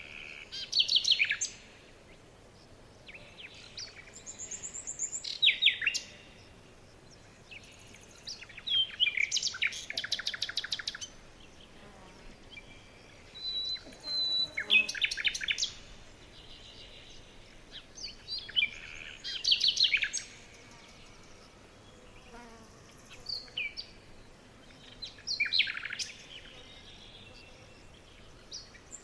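Forest songbirds singing short phrases of rapid high notes, a phrase about every four to five seconds, several of them dropping in pitch at the end, over a quiet background.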